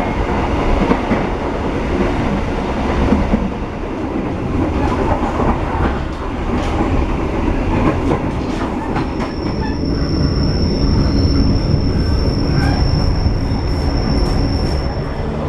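Passenger train rolling along the track, a dense rumble with scattered wheel clicks. About nine seconds in, a steady high-pitched wheel squeal joins and holds for several seconds.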